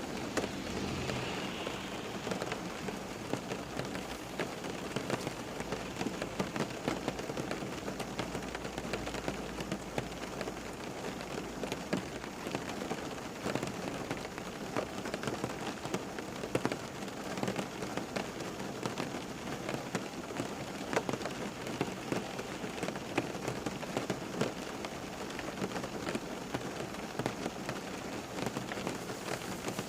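Steady rain falling, many close drops pattering on a surface.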